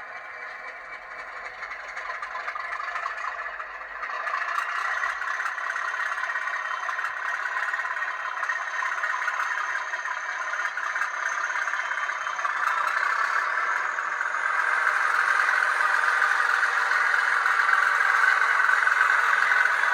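N gauge Class 37 model locomotive's DCC sound decoder playing the English Electric diesel engine sound through its tiny loudspeaker, thin and without bass. The engine sound steps up in loudness about four seconds in and again near the three-quarter mark, as if notching up.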